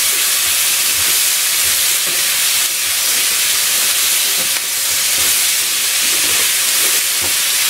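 Chopped peppers, onion and tomato sizzling in a hot wok as they are stir-fried with a spatula: a loud, steady hiss with faint knocks of the spatula against the pan.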